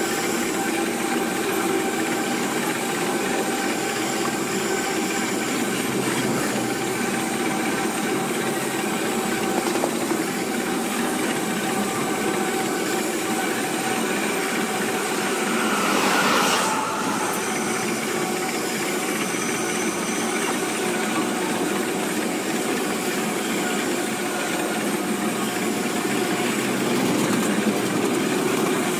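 Iron ore wagons on the Sishen–Saldanha ore line rolling past at close range: a steady noise of steel wheels on the rails, with a few steady tones, growing briefly louder about halfway through.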